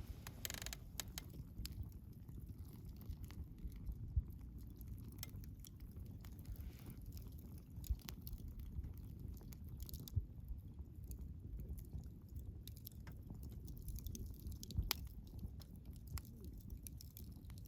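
Wood fire burning, with a steady low rumble and irregular crackles and sharp pops from the burning logs.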